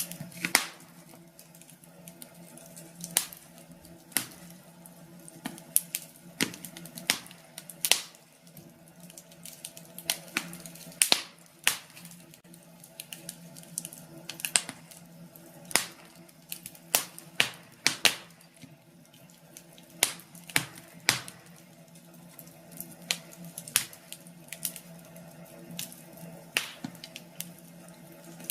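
Wood fire crackling in a fireplace: irregular sharp pops and snaps, over a steady low hum.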